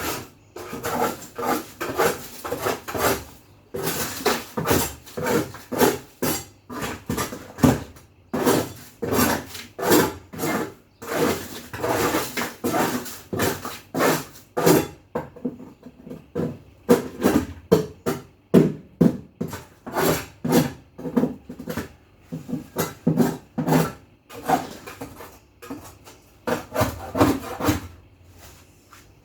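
Scrubbing by hand: repeated rubbing strokes at about two a second, pausing briefly a couple of times.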